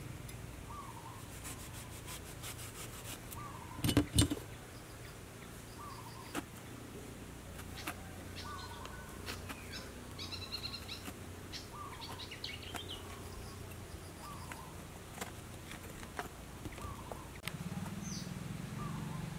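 Birds calling outdoors, one repeating a short chirp about every second and a half, with brief higher chirps from another bird in the middle. Scattered light clicks and a loud double knock about four seconds in come from eggplants, spoon and knife being handled over a plastic basket.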